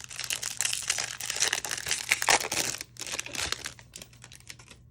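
A baseball card pack's wrapper being torn open and crinkled by hand: a dense crackling that peaks about two seconds in, then thins to a few scattered rustles near the end.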